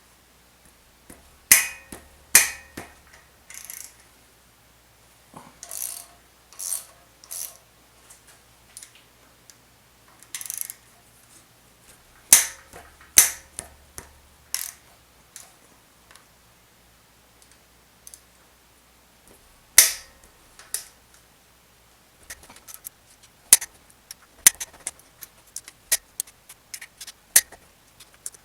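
A 1/4-inch ratchet working the 8 mm rocker arm bolts loose on an LS V8, with sharp metallic clicks and knocks, several loud single strikes and short runs of ratchet clicks. The clicking comes faster and denser in the last several seconds.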